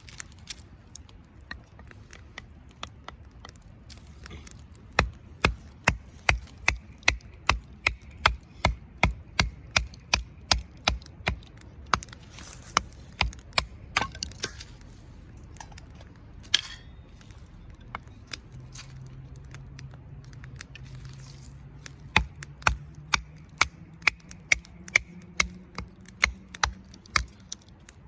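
Firewood being chopped: a blade striking wood in steady repeated blows, about two a second, in two runs with a pause of several seconds between them.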